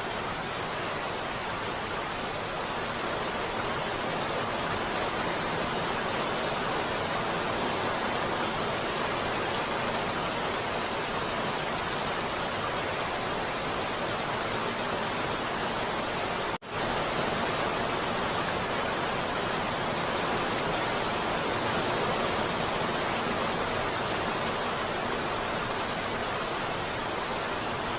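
Heavy rain falling in a steady, even hiss, with a very brief dropout about two-thirds of the way through.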